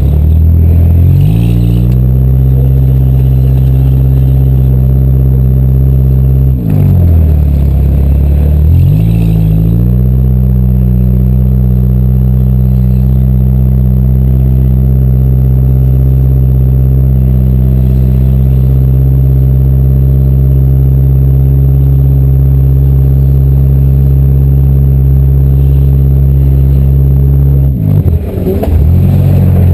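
Demolition derby car's engine held at steady high revs. Three times, near the start, about seven seconds in and near the end, the revs drop briefly and climb back as the throttle is lifted and reapplied.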